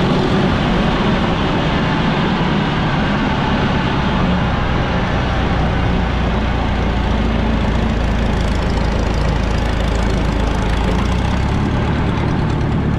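Minneapolis Moline ZB tractor's four-cylinder engine running steadily and loudly while the tractor is driven, its low drone shifting slightly in pitch about eleven seconds in.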